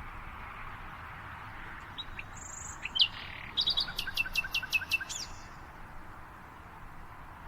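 Birds chirping: a few short calls about two seconds in, then a quick run of sharp, evenly repeated chirps, about five a second, over a steady background hiss.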